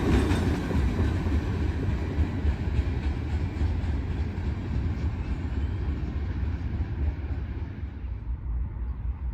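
Train passing by and moving away, its rolling rumble slowly fading, with the hiss dying out near the end.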